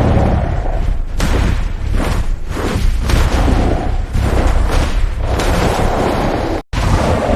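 Cinematic sound effects: a series of heavy booms and thuds, roughly one a second, over a continuous deep rumble. The sound cuts out for an instant near the end, then resumes.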